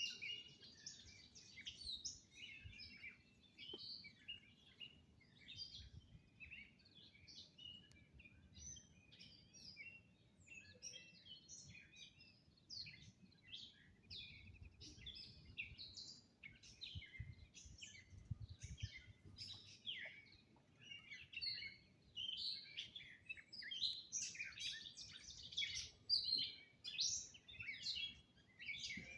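Several songbirds singing at once, a steady chorus of overlapping chirps, whistles and trills, with a faint low rumble underneath.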